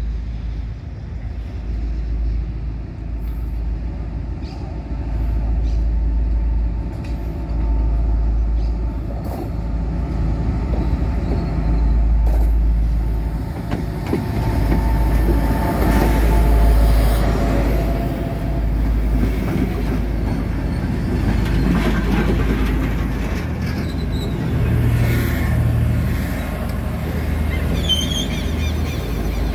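CNR CKD8H and EMD GT-22CW diesel locomotives bringing a passenger train into a station. The engines run and the wheels roll on the rails, getting louder through the middle as the train comes past.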